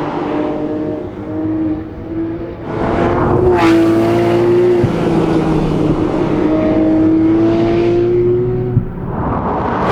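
Porsche 911 R's 4.0-litre flat-six engine pulling under throttle while driving. The engine note climbs slowly for several seconds, then drops away as the throttle closes near the end.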